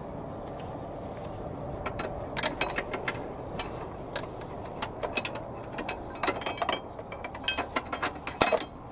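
Ratchet wrench clicking in short, irregular runs, starting about two seconds in, as bolts are worked during timing-belt removal on a 4A-G engine.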